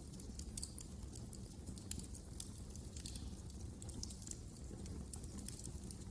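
Wood fire crackling: faint, irregular quick pops and snaps over a steady low rumble.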